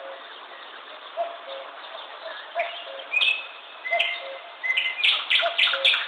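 Birds chirping: short high chirps that come closer together and grow loudest in a quick run near the end, over a low two-note call repeating about every second and a half.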